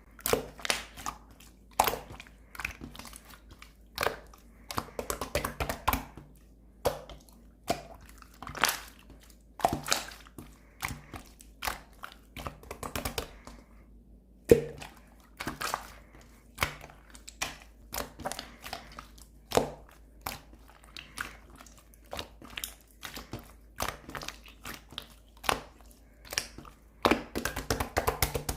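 Clear slime being squeezed and pressed by hand, making irregular sticky pops and clicks a few times a second, with short crackly stretches in between.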